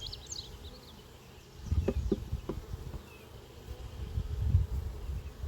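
Honeybees in an open hive's brood box humming, a constant buzz. Low bumps come about two seconds in and again near the end.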